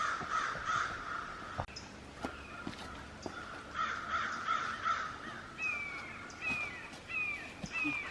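Woodland birds calling: repeated harsh, raspy calls, and from about two-thirds of the way in a second bird giving a series of short falling whistled notes, roughly one every two-thirds of a second.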